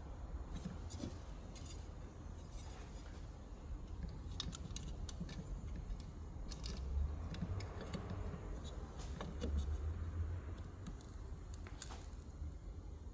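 Small metal parts and hand tools being handled, with scattered light clicks and clinks over a steady low hum.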